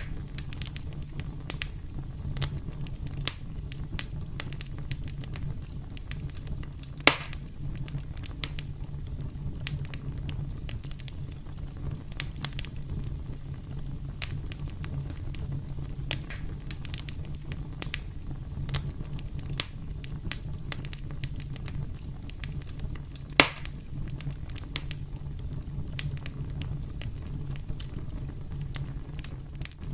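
Campfire burning with a steady low rumble and irregular crackles, and two louder pops from the burning wood, about seven seconds in and again near two-thirds of the way through.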